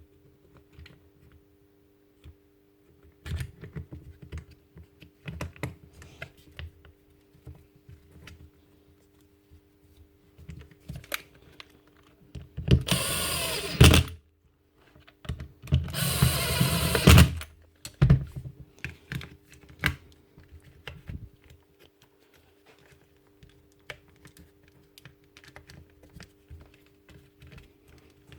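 Clicks and knocks of a jigsaw being handled and put back together, and twice in the middle the Bosch GST 85 jigsaw's motor is switched on briefly, about a second and a half each time, the loudest sounds here.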